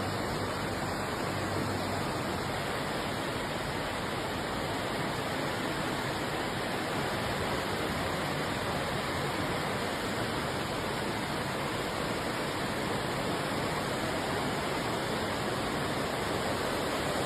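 Steady rush of fast-flowing water, an even roar that holds unchanged throughout.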